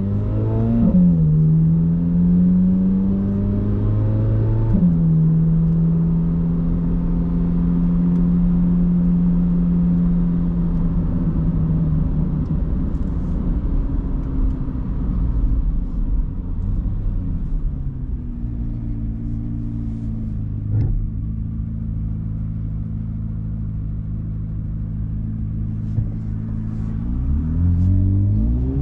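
Chevrolet Corvette C8 Z06's 5.5-litre flat-plane-crank V8 pulls up through two quick upshifts of the dual-clutch gearbox, each with a sudden drop in pitch, short-shifted because the new engine is being run in. It then cruises at a steady pitch and accelerates again near the end. There is one short knock about two-thirds through.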